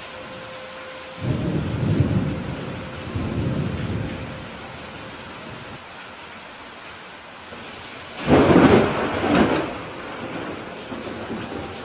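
Steady rain falling with thunder: a low rolling rumble starts about a second in and fades over a few seconds, then a louder, sharper clap of thunder comes about eight seconds in, swelling twice before dying away.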